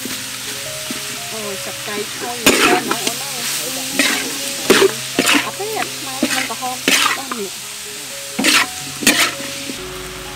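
Chunks of fermented fish frying with garlic and chilies in a metal wok, sizzling steadily, while a metal spatula scrapes and stirs the pan in about seven loud strokes at uneven intervals.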